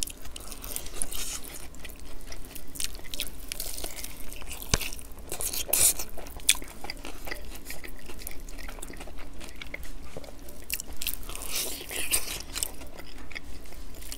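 A person biting and chewing crispy fried chicken glazed in sweet and sour sauce, with many small crunches. The crunching is heavier around the middle and again near the end.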